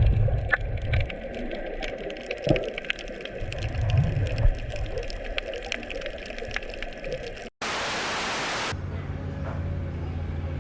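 Underwater crackling, many sharp ticks over a hiss, with low swells of bubbling about every three to four seconds, typical of a diver's exhaled regulator bubbles. After an abrupt cut comes a second of loud hiss, then a steady low drone from an engine.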